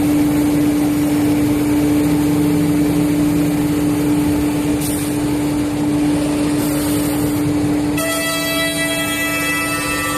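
CNC router spindle running steadily with a constant whine over a noisy cutting hiss. Near the end the sound changes, and several thin high whines join in.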